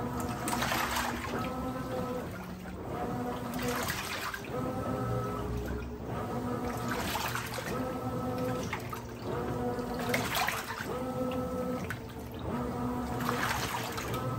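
Brastemp 17 kg top-loading washing machine agitating a load in water. A motor whine starts and stops with each stroke of the agitator, and a swash of water rises about every three seconds.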